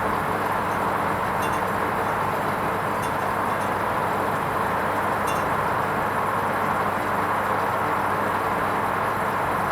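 Hoover Vision HVP16 washing machine running its wool rinse programme: a steady whirring and rushing with a constant low hum and a few faint ticks.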